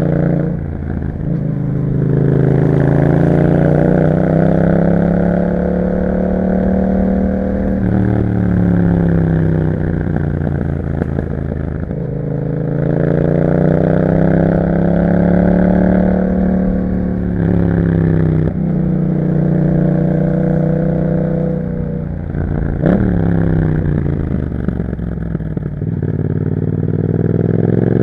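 2021 Yamaha MT-07's 689 cc parallel-twin engine through an Akrapovic exhaust with a dB killer, heard while riding. The revs climb and fall back again and again, with about five sudden drops, and there is one short sharp click about two-thirds of the way through.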